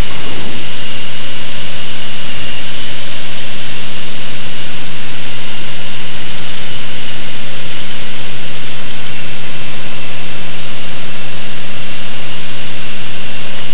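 Steady drone of a Cessna 185 Skywagon's piston engine and propeller heard inside the cabin, with a steady high tone on top.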